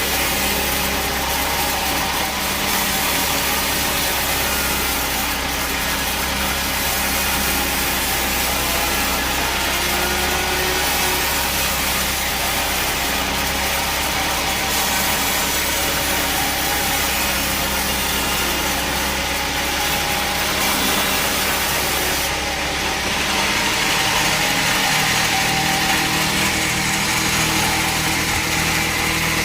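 Bandsaw sawmill running steadily, a continuous machine hum with a hiss over it. About three-quarters of the way through the low hum drops away and the higher hiss grows louder.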